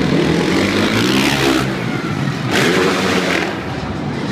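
Dirt bike engine revving hard twice, its pitch climbing and dropping each time.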